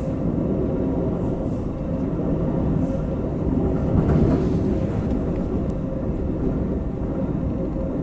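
Amtrak Coast Starlight train running: a steady low rumble of wheels on rail, heard from inside the passenger car as it crosses a steel truss bridge. It swells briefly about four seconds in.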